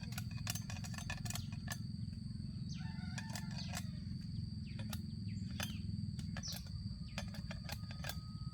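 Outdoor field sound: birds chirping in short curved calls over a steady low rumble and a constant high whine, with many sharp clicks and snaps throughout.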